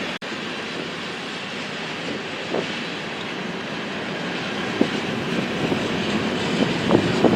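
Train rolling by on the rails: a steady rumble of wheels on track, with short knocks that come louder and more often near the end.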